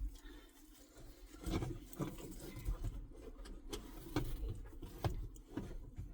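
Handling of a fabric car seat cover as it is pulled and fitted onto a seat: scattered soft rustles and light knocks, starting about a second and a half in.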